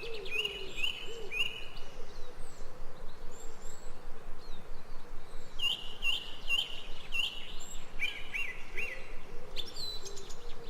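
Jungle birds calling together: bouts of short, repeated, fairly high call notes, with a low repeated cooing or hooting from another bird underneath, over a steady background hiss.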